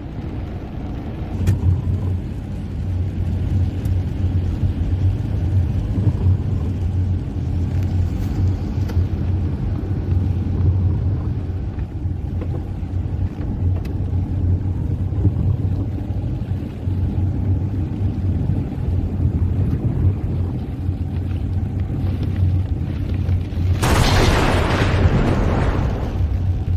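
Car driving on a wet road, a steady low rumble of engine and tyres. About three-quarters of the way through comes a loud hissing rush lasting about a second and a half.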